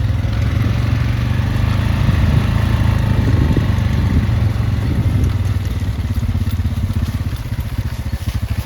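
A small vehicle engine running steadily while crossing a creek. It works a little harder and rougher for a few seconds in the middle.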